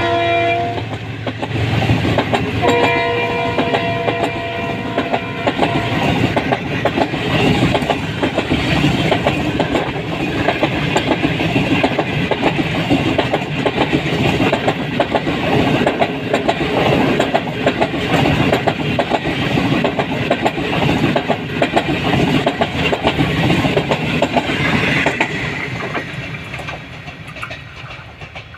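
Pakistan Railways passenger coaches passing close by, their wheels clattering over the rail joints. The train's horn sounds a chord at the start and again for a few seconds around three seconds in. The clatter fades away near the end as the train recedes.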